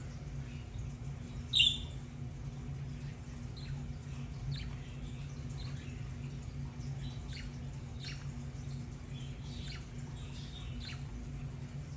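Budgerigars chirping with short, high, downward-sweeping calls, and one loud squawk about a second and a half in, over a steady low hum.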